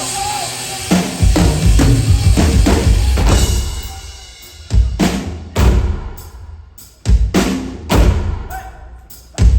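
Live stage percussion: about a second in, loud, dense drumming starts, then gives way to pairs of heavy low drum hits, each ringing out.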